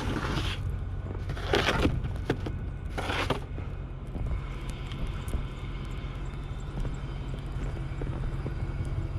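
Snow-plowing vehicle's engine running steadily, with three short rushes of noise in the first few seconds.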